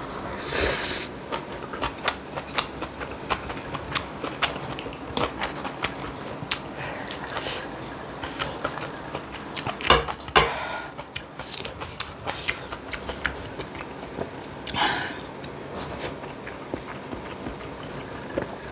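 Close-miked eating: chewing and biting through braised kimchi and pork back ribs, with many small irregular wet mouth clicks and a few louder bites, the loudest about ten seconds in.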